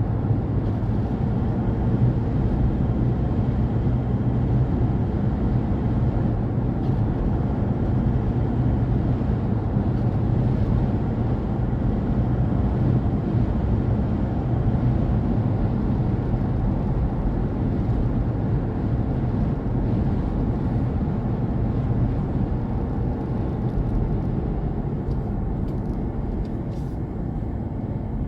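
Steady low rumble of a car driving at speed on a highway: tyre, engine and wind noise.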